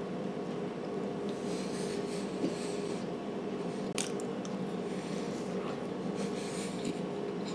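Faint mouth noises of a person chewing a soft, cream-filled chocolate snack cake over a steady low room hum, with a single sharp click about four seconds in.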